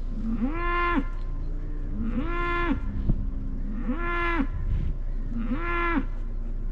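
Cattle mooing: four short, even calls, each rising, holding and then dropping in pitch, repeated about every second and a half, over a steady low hum.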